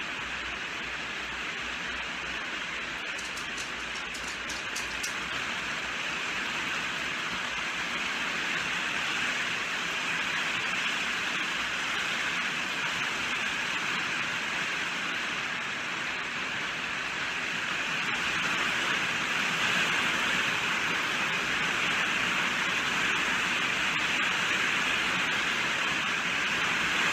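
Steady rain falling, an even hiss without distinct drops, a little louder in the second half.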